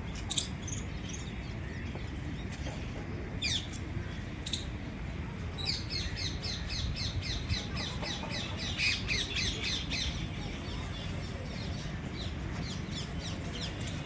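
Birds calling: a few quick downward-sweeping chirps, then from about six seconds in a fast run of repeated chirps, about five a second, for around four seconds. A steady low rumble of background noise sits under the calls.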